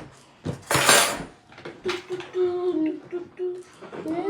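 A few clinks of dishes and cutlery and a short hiss about a second in, then a child humming a tune in held, stepping notes.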